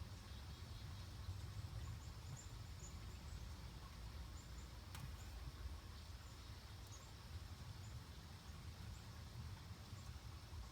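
Faint outdoor ambience: a steady low rumble with scattered short, high bird chirps, and one sharp click about five seconds in.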